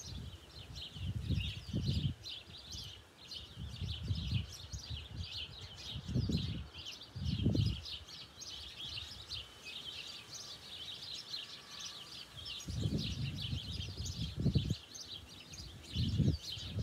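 Small birds chirping and twittering continuously, with irregular low rumbling bursts every few seconds.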